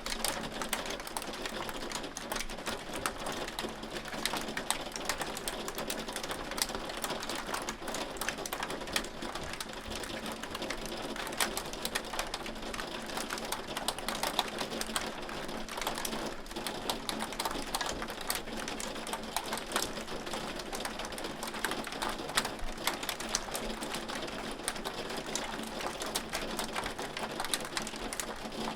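Hail falling steadily, a dense rapid ticking and clattering of hailstones striking a hard surface over a continuous patter.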